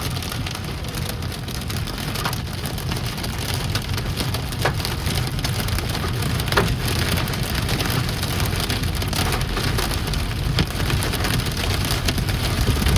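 Hail and rain hitting a car's roof and windshield, heard from inside the cabin: a dense, steady patter with a handful of sharper, louder stone strikes standing out, over a low rumble of the moving vehicle.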